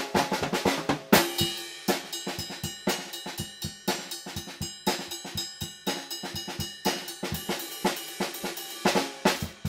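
Acoustic drum kit played freely, with fast snare and bass drum strokes under washing cymbals and hi-hat, and a heavy accented crash about a second in.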